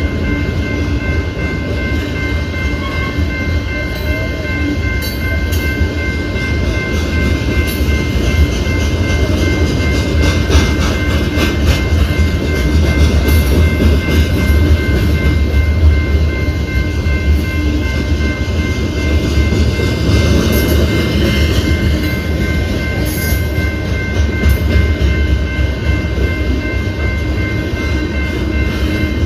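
BNSF freight train rolling past: a steady, loud, deep rumble of rail cars on the track, with scattered clicks and clatter from the wheels, thickest about ten to thirteen seconds in.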